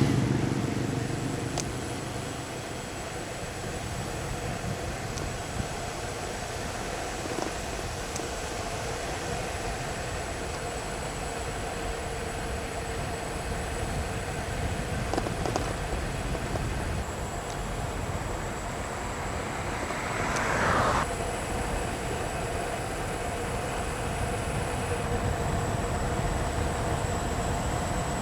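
Steady outdoor road noise, with a loud passing vehicle fading away in the first two seconds and a brief swell of sound about twenty seconds in.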